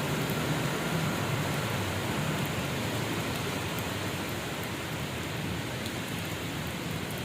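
Heavy rain falling, a steady even hiss of rain on surfaces.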